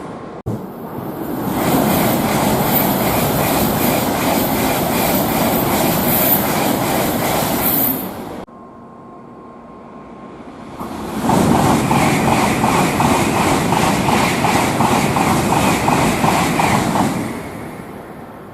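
Tokaido Shinkansen trains rushing through the station at high speed, a loud rushing roar with a fast rhythmic beat. The first pass cuts off suddenly about eight seconds in. A second builds about eleven seconds in and fades near the end.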